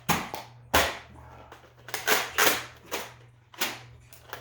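Nerf dart blasters firing, about six sharp snapping shots at uneven intervals.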